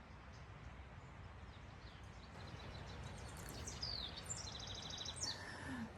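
Wild birds chirping, with short falling calls and a fast trill of rapid high notes in the second half, over a steady low outdoor background noise.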